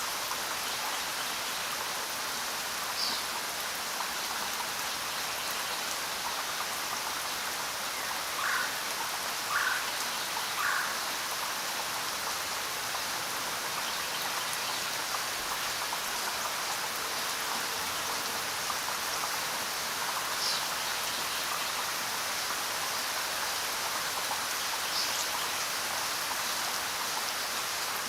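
Steady rainfall, an even hiss of falling rain. A few short separate sounds stand out from it, three of them about a second apart about a third of the way in.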